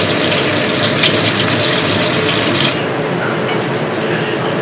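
Whole fish frying in hot oil in a wok, a steady loud sizzle. About two-thirds of the way through the sound turns duller, losing its high hiss.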